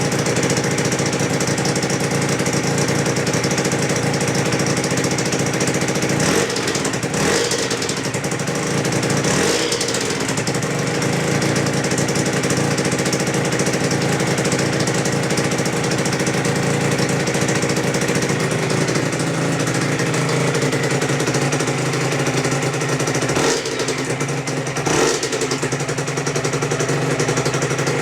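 Freshly rebuilt Aprilia RS125 Rotax 122 two-stroke single idling steadily, blipped briefly a few times. The new engine is running very tight with a whine that the owner puts down to the new, tightly meshed balance shaft gears wearing in.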